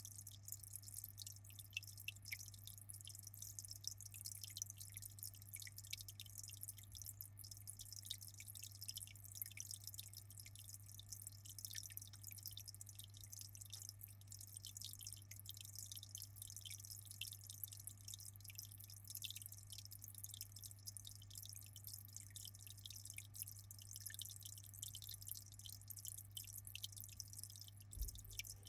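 Aquarium water trickling and dripping, a dense fizz of fine ticks and splashes, over a steady low hum.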